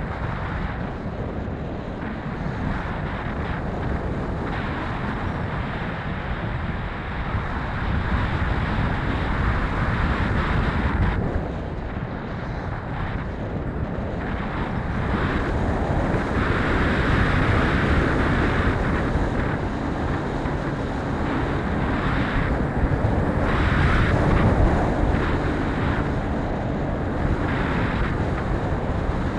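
Wind buffeting the microphone, a low rumbling noise that swells and eases with the gusts, louder in the second half.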